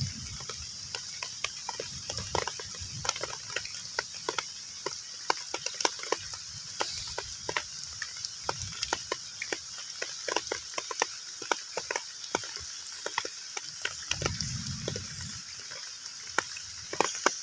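Heavy rain falling on a pond: a steady hiss with many separate drops plinking on the water surface. A brief low rumble comes about fourteen seconds in.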